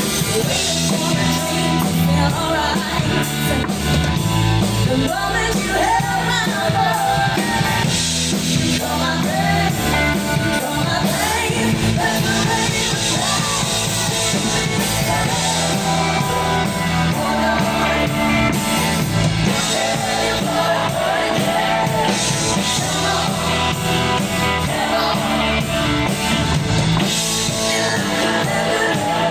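Live rock band playing with a sung lead vocal, drum kit and guitars, heard through the crowd's amplified room sound.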